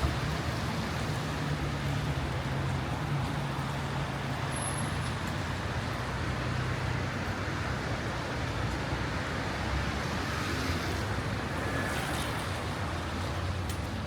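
Steady city street traffic noise: vehicle engines running with a low hum, over a constant wash of road noise.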